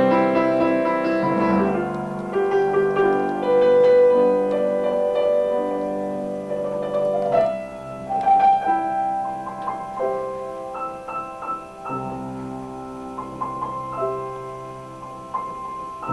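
Slow piano music: held chords and single struck notes that ring and fade.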